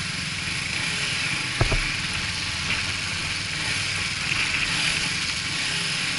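Riding noise from a Suzuki GW250 Inazuma motorcycle: steady wind rush on the microphone over the engine running at speed, with one short knock about a second and a half in.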